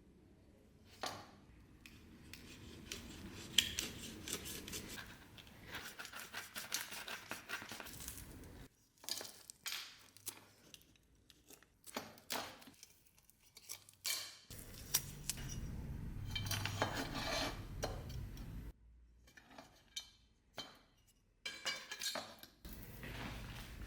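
Metal parts of a saber being handled by hand: a run of clicks and knocks, with two longer stretches of rough rubbing or scraping noise.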